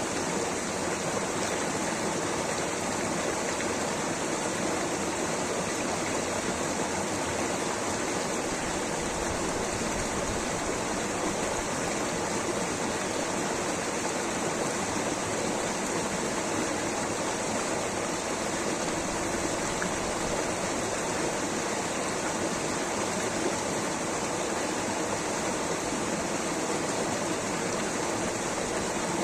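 Flowing water rushing steadily, an even, unchanging hiss and rumble with no breaks.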